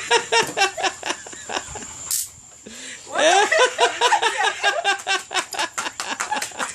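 Several people laughing, with giggles and chuckles in quick repeated bursts, and a brief burst of hiss-like noise about two seconds in before the laughter swells again.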